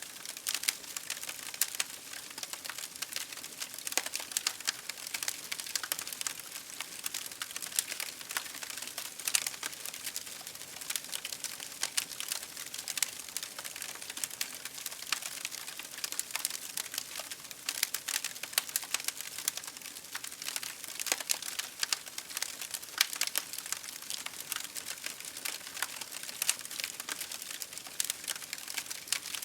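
Campfire crackling steadily, with many small, irregular sharp pops over a soft hiss of burning wood.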